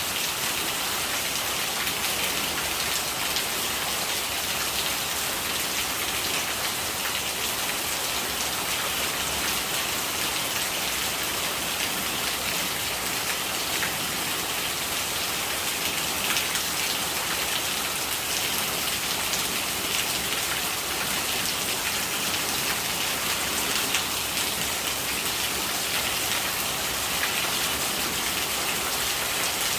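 Steady rain, a dense patter of drops over gurgling rainwater, unbroken throughout.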